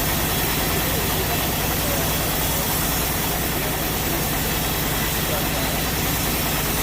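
Sawmill machinery running steadily: a constant low motor hum with a hiss over it.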